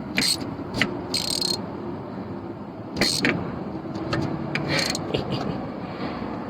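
Hand tools and engine parts being handled in a car engine bay during spark plug and fuel injector work: scattered metal clicks and scrapes, with a short hiss about a second in.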